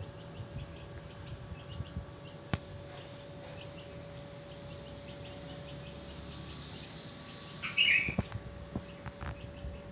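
Small birds chirping: short, high chirps repeat throughout, with one louder chirp about eight seconds in.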